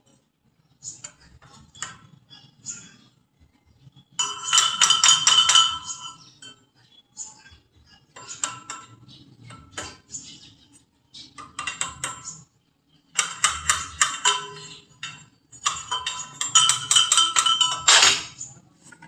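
Metal striking metal: several runs of quick, sharp ringing clinks, the loudest near the middle and near the end.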